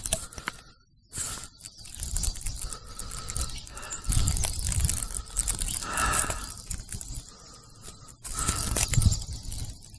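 Strong gusty wind buffeting the microphone during a snow squall: an uneven rushing noise with a deep rumble that surges and drops in gusts, nearly cutting out about a second in and again just after eight seconds.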